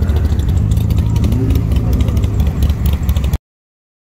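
Car engines running at low speed as show cars drive off, with a short rising engine note a little over a second in. The sound cuts off suddenly near the end.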